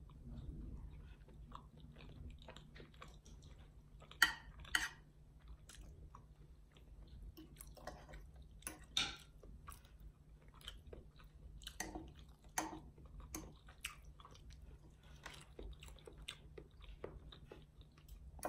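A person chewing a mouthful of soft food close to the microphone, with many short clicks scattered through it and a few louder ones.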